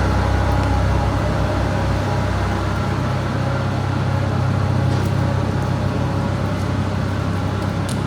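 Steady low rumble of city street traffic, with engines running.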